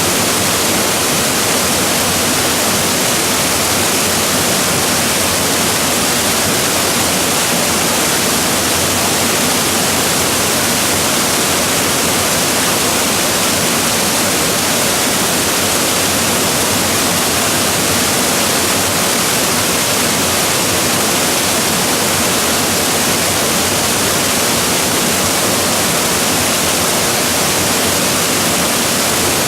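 Waterfall: a steady, loud rush of falling water, even throughout with no breaks.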